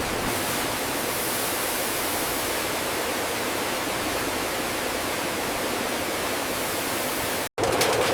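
A steady, even rushing noise with no rhythm or tone, cut off abruptly near the end.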